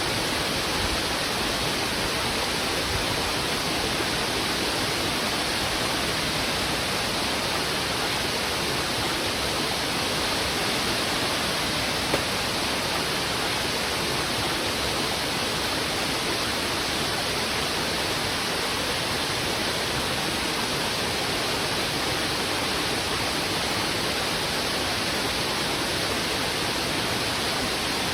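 Heavy river water rushing steadily over rocks: a dense, unbroken roar of fast-flowing current.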